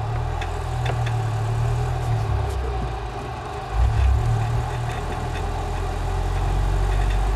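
KTM X-Bow's turbocharged 2.0-litre four-cylinder engine running as the car is driven on the track, heard from the open cockpit. The engine sound dips for about a second, then rises sharply about four seconds in.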